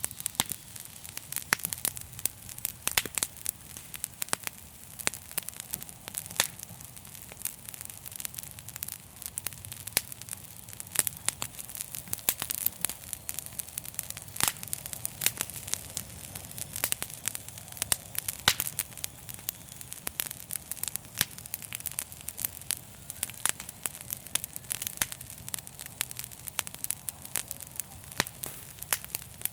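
Wood fire crackling: dense, irregular pops and snaps over a low, steady hum.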